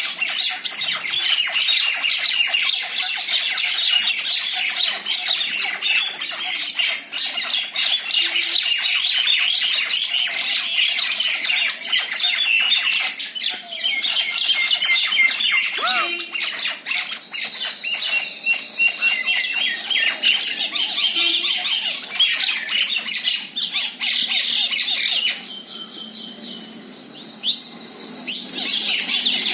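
Common (Indian) mynas squawking in a dense run of rapid, overlapping calls during a territorial fight between two pairs. The calls drop away briefly about 25 seconds in, then start again.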